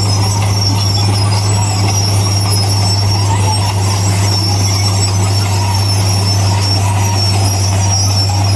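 Heavy earthmoving machinery running steadily: a deep, even diesel engine note with a high-pitched squeal over it.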